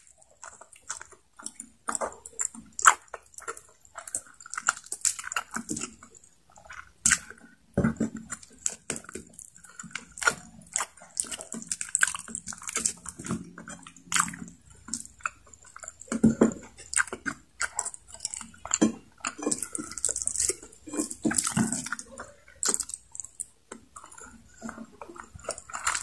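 Close-miked eating sounds: chewing and biting on adobo-braised chicken neck and rice, with many short wet mouth clicks and smacks and sucking on fingers.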